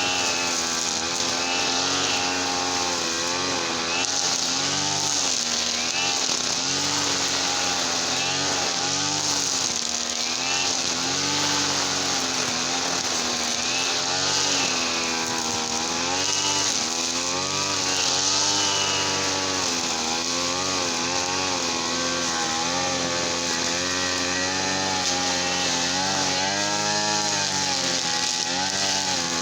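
Small petrol engine running continuously, its speed swinging up and down every second or two.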